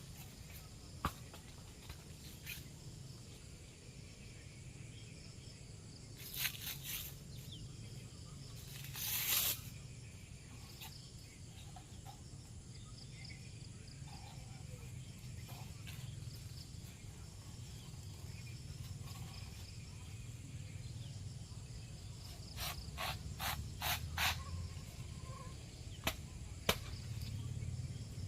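Outdoor rural ambience: a steady low hum with scattered sharp clicks and knocks, a brief rustling rush about nine seconds in, and a quick run of clicks near the end.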